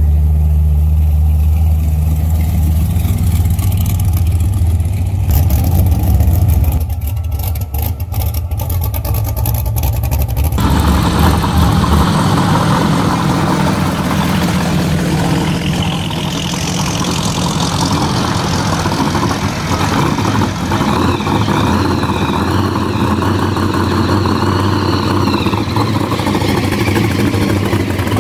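Engines of gasser-style hot rods running as the cars drive slowly past. About twelve seconds in the sound changes to a second car, a black early-1960s Chevy II gasser whose engine carries a large supercharger through the hood.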